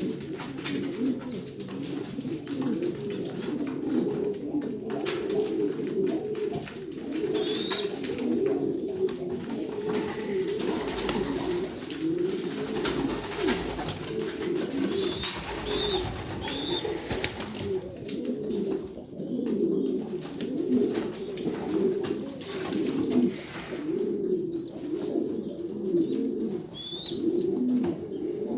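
A flock of Levantine baladi (Shami native) domestic pigeons cooing continuously, many low coos overlapping. A few short high chirps stand out here and there.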